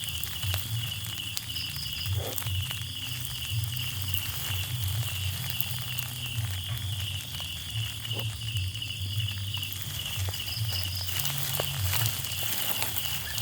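Countryside insects, like crickets, chirping in a steady, evenly pulsed high trill, over a low pulsing hum and a few faint clicks.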